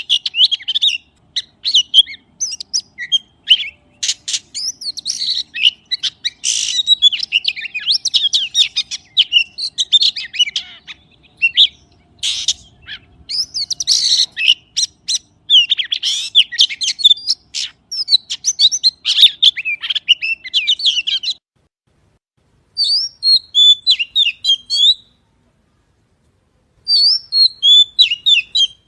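Magpie calling: rapid, squeaky chirping notes in a dense run that stops about 21 s in, then two short bursts of chirps separated by silent gaps near the end.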